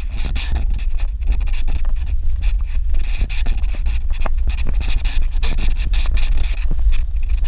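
Heavy low rumble of wind buffeting the microphone, fluttering unevenly throughout, with a faint steady high hiss above it.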